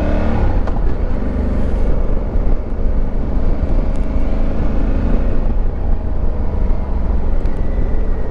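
Honda Africa Twin Adventure Sports' parallel-twin engine running while the bike is ridden, largely buried under a steady, heavy low rumble.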